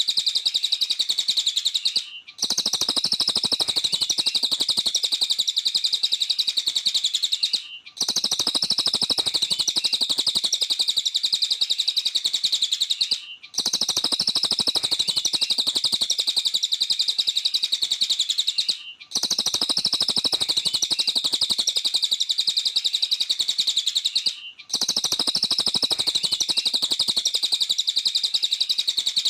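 Cililin, a small Indonesian songbird, singing a fast, continuous, high-pitched chattering song of rapid chirps. The song comes in even runs of about five and a half seconds, each broken off by a brief pause, four times.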